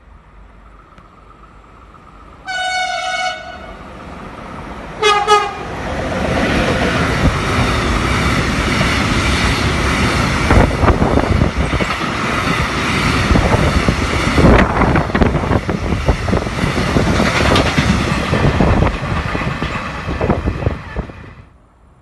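Train horn sounded twice, a higher note and then a shorter, lower one a couple of seconds later, as the train approaches. The train then passes close and loud for about fifteen seconds with the rumble and clatter of its wheels on the rails, fading out near the end.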